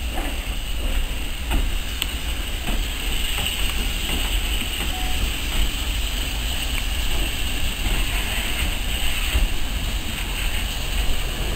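Railway locomotive running slowly in a station: a steady low rumble with a few light clicks.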